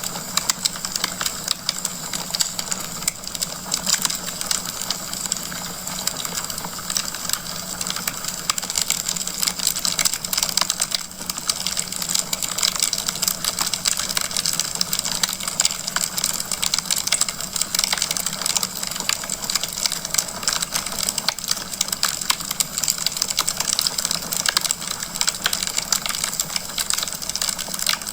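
Wood fire crackling in a fireplace: a dense, steady run of small pops and snaps.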